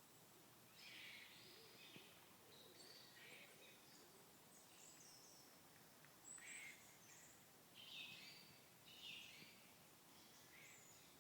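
Faint songbirds chirping, a string of short calls every second or so over a steady low hiss.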